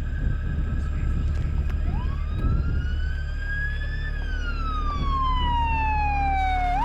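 A siren wailing: its pitch climbs quickly about two seconds in, then falls slowly and begins climbing again near the end, over a steady low rumble.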